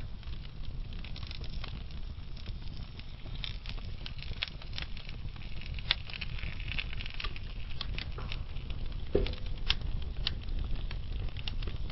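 Wood fire burning slowly in a fireplace: a steady low rumble of the flames with frequent irregular crackles and pops, one louder pop a little after nine seconds in.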